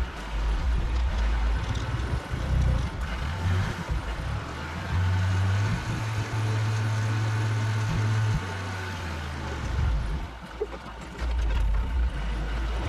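Delivery truck on the road: engine running under road noise, its low note stepping up and down several times.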